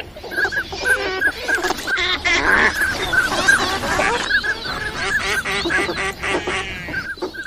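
A flock of ducks calling: many short calls repeated rapidly and overlapping in a dense chorus. This is the kind of recorded call that duck hunters play as a lure.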